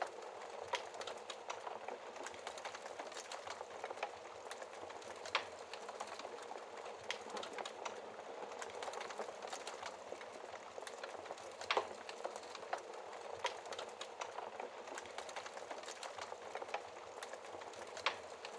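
Wood fire burning in a fireplace: a steady soft hiss with irregular crackles and pops, a few sharper snaps standing out, one about five seconds in, one near the middle and one near the end.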